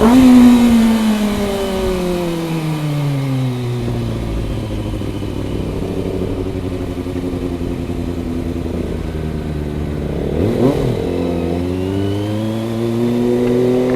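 Kawasaki ZX25R's inline-four engine on the move. The revs fall over the first few seconds as the throttle is rolled off, then hold low. After a short burst about ten seconds in, the revs climb again toward the end.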